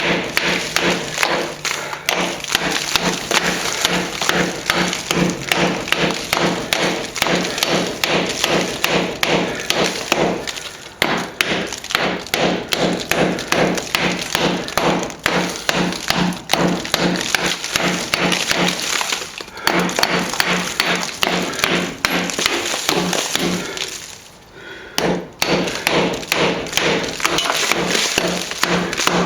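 Hammer and chisel chipping out very hard old cement render along a wall crack: a fast, steady run of ringing blows, about three a second, with brief pauses about a third of the way in and again near the end.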